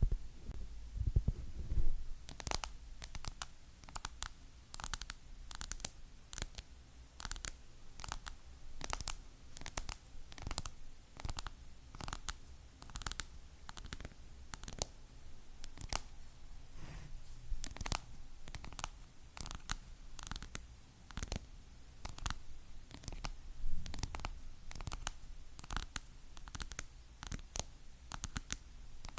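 Fingernails tapping on hard objects: short sharp clicks at an irregular pace of about two to three a second, with a few low thuds in the first two seconds.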